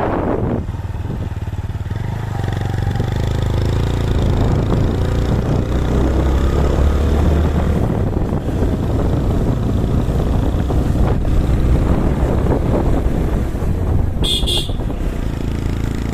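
A motor vehicle's engine running steadily, with a rushing low rumble, and a short high-pitched beep about two seconds before the end.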